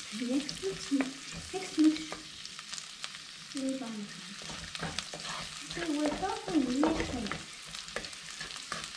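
Ginger, garlic and chillies sizzling in hot coconut oil in an earthenware pot, stirred with a wooden spatula that scrapes and knocks against the clay.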